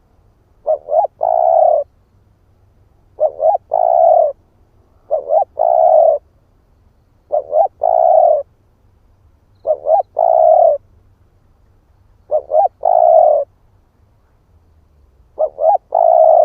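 Spotted dove cooing: a three-note phrase, two short notes then a longer drawn-out one, repeated seven times about every two seconds.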